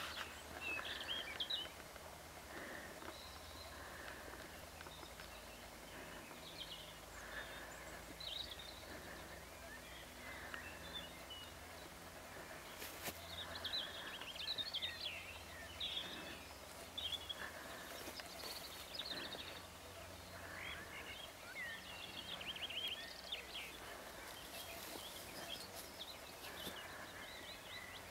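Several songbirds singing and chirping, with quick high trills coming and going throughout, over a steady low background noise.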